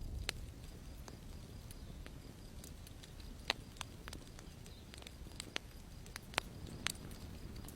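Wood campfire crackling: irregular sharp pops, about a dozen, the loudest a little past three seconds in and again past six seconds, over a low steady rumble.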